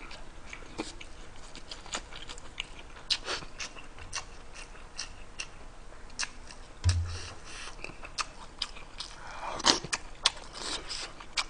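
Close-miked eating of rice and stew: wet chewing and lip smacks, with scattered sharp clicks and a brief low thump about seven seconds in.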